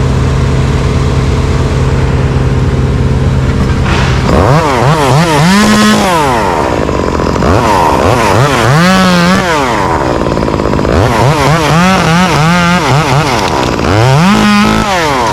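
A chainsaw is revved up from idle four times, each time rising to a high, steady whine for a second or two, over the steady running of the aerial lift's engine.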